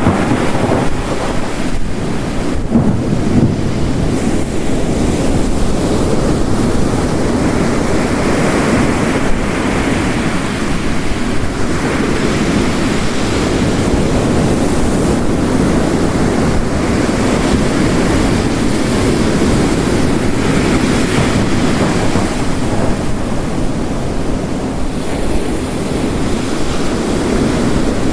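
Ocean surf crashing and washing on the shore in slow swells, over a steady hiss of heavy rain: a layered storm soundscape.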